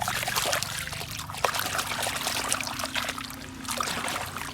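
Water splashing and trickling as a small toy vehicle is shaken in water by hand, with light clicks throughout.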